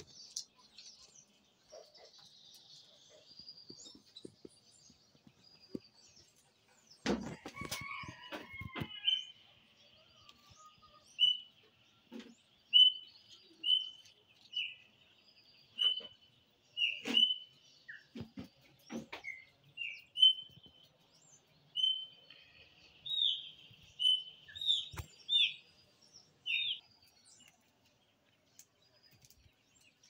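A songbird repeating short, high chirps at an even pace of about one a second, louder toward the end, with fainter chirping in the first few seconds. A cluster of knocks and rustles comes a few seconds in.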